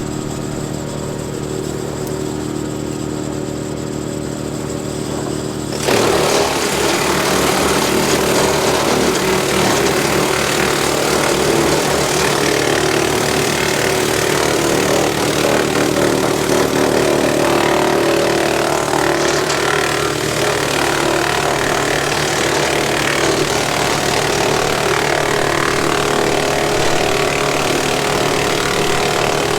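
Kubota M7060 tractor's four-cylinder diesel running a PTO-driven Woodmaxx WM8H wood chipper with a steady hum. About six seconds in it turns suddenly louder and rougher and stays that way.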